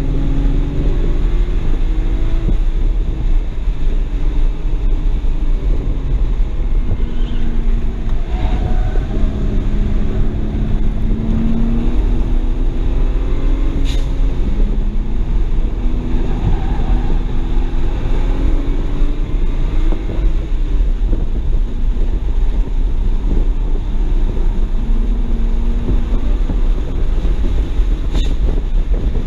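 Inside the cabin of a 2007 BMW 335i, its N54 twin-turbo inline-six driven hard on track: the engine note climbs and drops again and again as it revs over a constant low road and wind rumble. Two short sharp clicks, one about halfway and one near the end.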